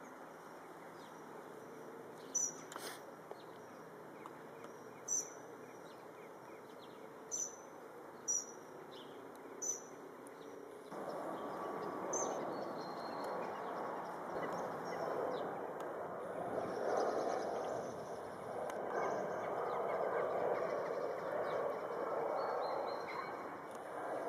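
Outdoor street ambience: a steady rush of background noise with short bird chirps six or so times in the first half. About halfway through the background noise grows louder and stays so.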